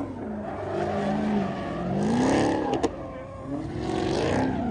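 A car engine revving hard in repeated swells, its pitch rising and falling, loudest a little past two seconds, with a single sharp crack just before three seconds.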